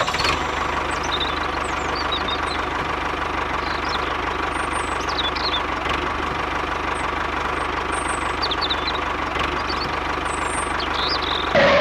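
Small engine of a miniature tractor running steadily at idle, with a rapid even chugging pulse. Birds chirp briefly now and then over it.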